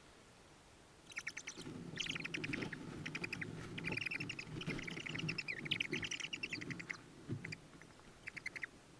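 Tawny owls in the nest box giving rapid, high chittering calls in quick pulse trains for several seconds, over soft rustling of bodies moving in the box. After a pause, a couple of shorter bursts come near the end.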